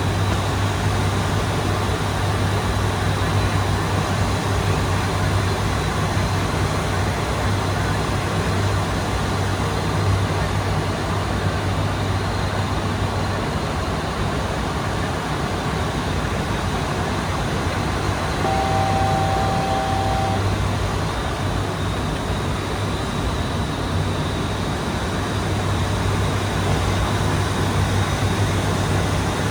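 ATR 72-600 turboprop in flight: a steady, loud drone of the engines and propellers with a constant low propeller hum. About two-thirds of the way through, a single steady tone sounds for about two seconds.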